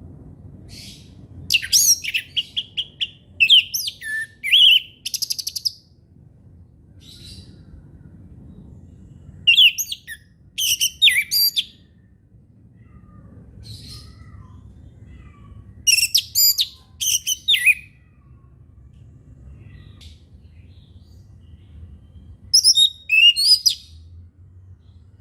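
Orange-headed thrush singing: four bursts of rapid, high, sweeping whistled notes, each a few seconds long and about six seconds apart, over a faint low rumble.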